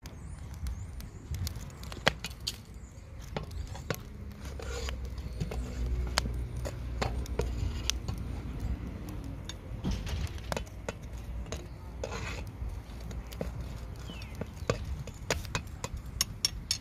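Irregular sharp clicks and knocks, some louder than others, over a steady low rumble.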